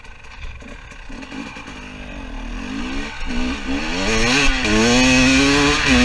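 Two-stroke 300 TPI dirt bike engine revving up and down several times, then holding a steady pitch, getting steadily louder throughout.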